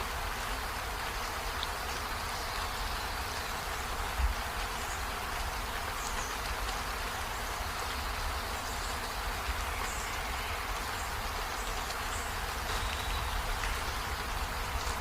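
Steady rain falling, an even hiss with a low rumble underneath and a single thump about four seconds in.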